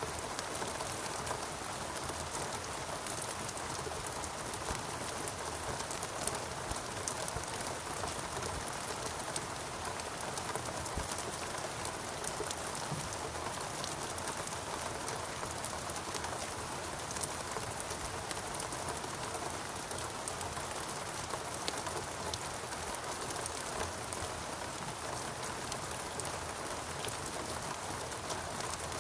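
Steady rain with a dense patter of individual drops.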